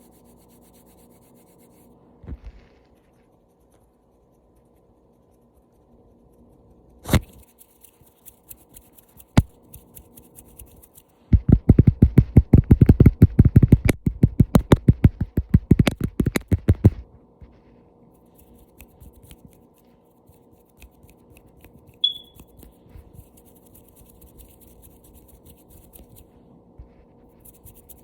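Fingertip tapping for ASMR: a few single taps and light scratches, then a fast, even run of loud taps lasting about six seconds in the middle.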